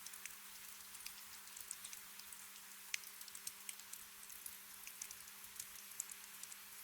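Gentle ambient rain: a soft steady hiss with scattered drops ticking irregularly, over a faint steady low hum.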